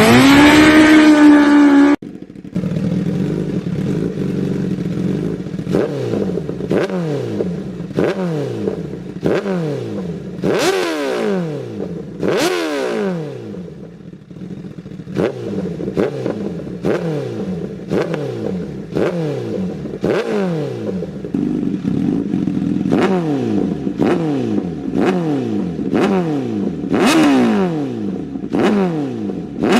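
Superbike engines at high revs. A loud rising rev cuts off about two seconds in. Then comes a long run of engine notes, each falling in pitch, one after another every second or so, fitting bikes passing at speed.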